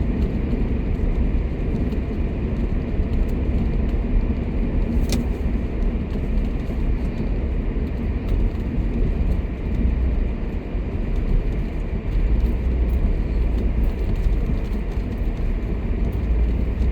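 Inside a car moving slowly over snowy streets: a steady low rumble of engine and tyres, with a single short click about five seconds in.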